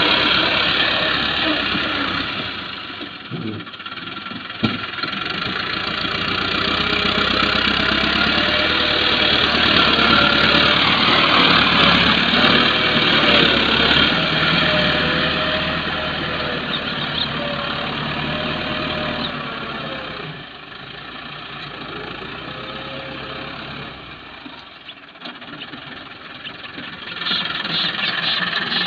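Massey Ferguson tractor's diesel engine running under load while loading soil, its pitch wavering up and down through the middle and the sound dropping lower for a while in the last third.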